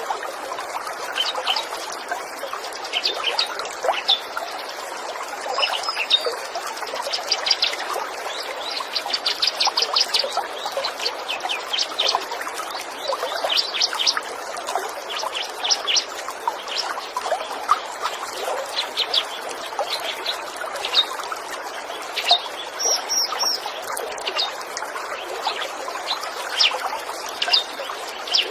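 Small songbirds chirping over a steady trickle of flowing water, with quick repeated chirps and fast trills, densest about eight to eleven seconds in.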